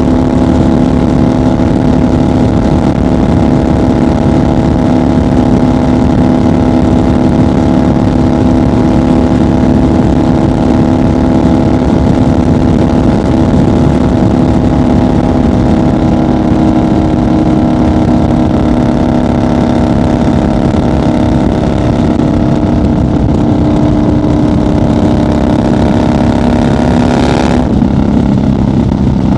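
1990 Harley-Davidson FXR's 1340 Evolution V-twin running at a steady highway cruise, a loud, even engine note over road and wind noise. Near the end there is a brief break and the engine note settles lower.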